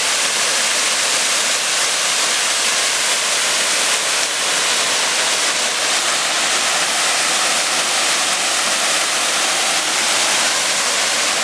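Steady, loud rush of water from a waterfall and stream flowing over rocks, holding an even level throughout.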